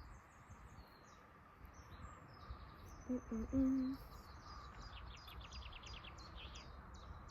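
Small garden birds chirping and twittering, with a quick run of repeated chirps about five seconds in. About three seconds in comes a brief low hum of three short notes, the loudest sound here.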